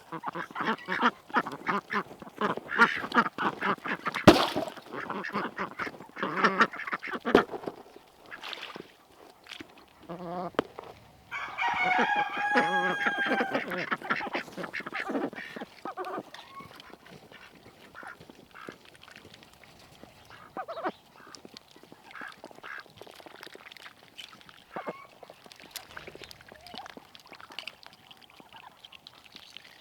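Domestic ducks quacking in rapid, overlapping runs, loudest over the first several seconds. A longer drawn-out call comes about eleven seconds in, then quieter, scattered quacks.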